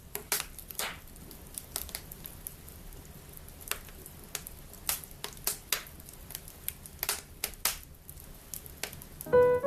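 Wood fire crackling in a fireplace, with sharp irregular pops over a low hiss. Piano notes come in near the end.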